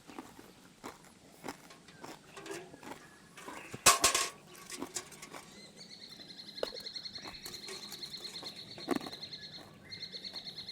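Light clicks of cutlery on a plate while eating, with one loud sudden noise about four seconds in. From about six seconds on, a high call pulses rapidly and steadily in the background from a bird or insect.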